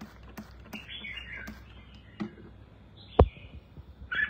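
Red-whiskered bulbul giving a few short high chirps. A light ticking runs about three times a second over the first second and a half, and one sharp knock comes about three seconds in.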